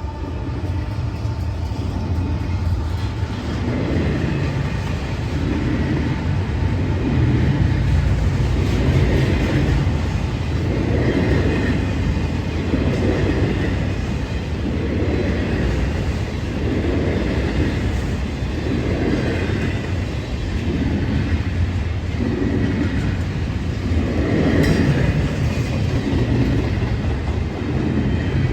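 CSX double-stack container train rolling slowly past, its wheels clacking over the rail with a swell of noise about every two seconds as each car goes by, over a steady low rumble.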